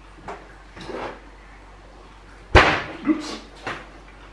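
Kitchen clatter off camera: a few light knocks, then one sharp, loud bang about two and a half seconds in, followed by a couple of lighter knocks.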